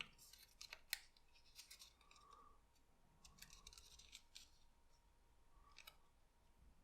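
Near silence with faint, scattered ticks and soft rustles of thin card being creased and folded by hand.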